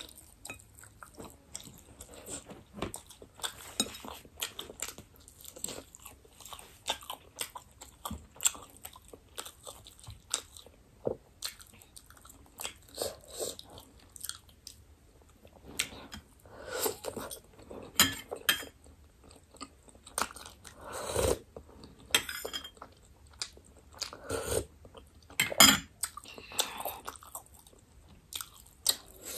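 Someone chewing and biting chicken momo dumplings: a run of irregular short mouth clicks and bites, louder in the second half.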